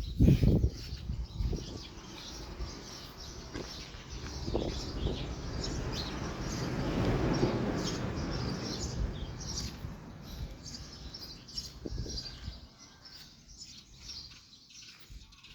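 Small birds chirping, many short high calls throughout, over a low rumble that swells in the middle and fades away near the end.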